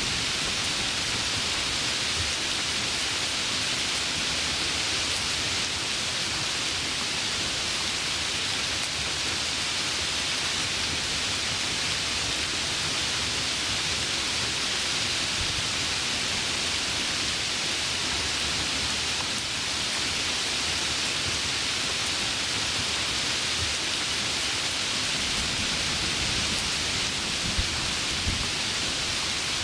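Heavy rain falling steadily, a dense even hiss, with a couple of faint low thuds near the end.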